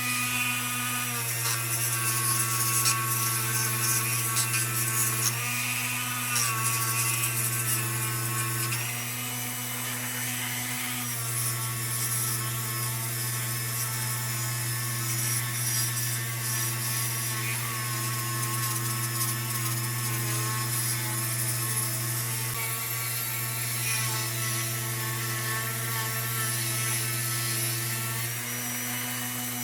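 Dremel rotary tool running steadily, working abrasively into the corners of a metal lantern body. Its tone shifts slightly a few times as it is pressed on and eased off.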